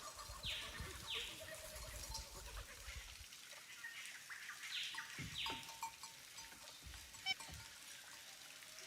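Faint animal calls: a pair of quick falling notes twice, about four and a half seconds apart, with faint bleating typical of goats.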